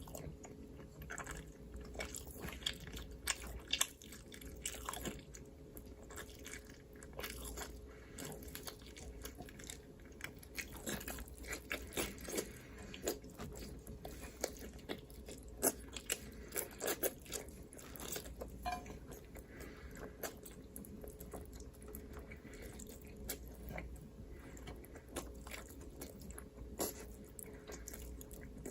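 Close-miked eating: irregular crunching bites and chewing, many small crackles in quick, uneven succession, over a faint steady low hum.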